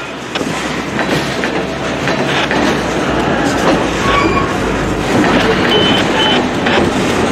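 Freight train of open-top hopper cars rolling past: a steady rumble of steel wheels on rail with clicks as the wheels cross rail joints. A couple of short, high squeals come from the wheels partway through.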